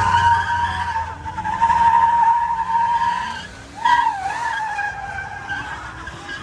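Car tyres squealing in a long, steady screech as a car slides under power, with a low rumble underneath at first. The squeal fades briefly about three and a half seconds in, then comes back with a wavering pitch.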